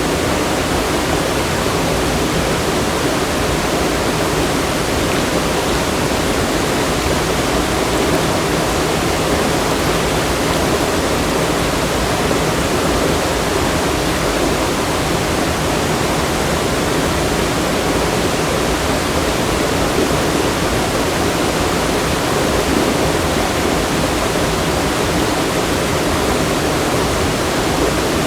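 Loud, steady rushing water, an unbroken roar of falling or fast-flowing water with no other events.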